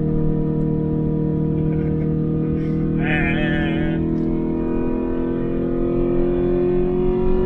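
Daihatsu Applause's 1.6-litre four-cylinder engine running hard, heard from inside the cabin. Its pitch sags slightly, then rises again from about five seconds in as the car accelerates. About three seconds in there is a brief high warbling squeal lasting about a second.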